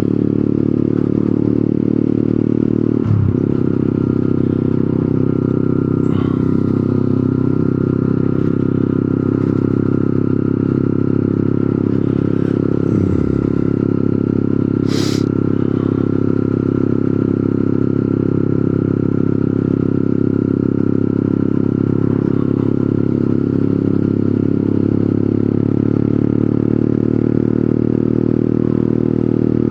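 125cc motorcycle engine idling steadily, its pitch holding level throughout. A brief sharp high-pitched sound cuts in about halfway.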